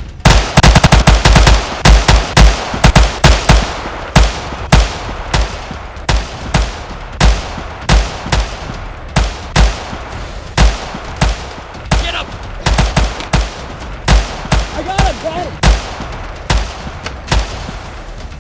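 Gunfire in a firefight. It opens with a dense run of rapid shots in the first couple of seconds, then goes on as irregular single and paired shots about every half second.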